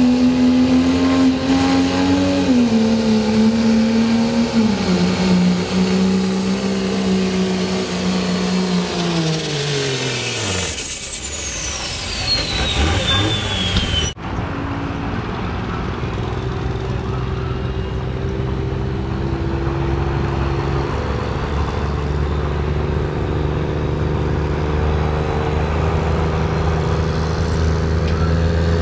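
Diesel pickup truck engine running at high revs under heavy load in a truck pull, with a high turbocharger whistle. About ten seconds in the revs fall away and the turbo whistle winds down in pitch. After a sudden break, diesel engines run steadily at low revs.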